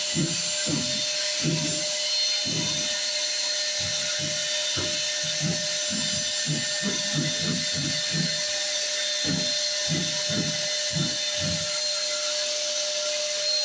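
Shop vac running steadily with a constant whine, with irregular low fluttering pulses from the suction while it vacuums out a dryer vent.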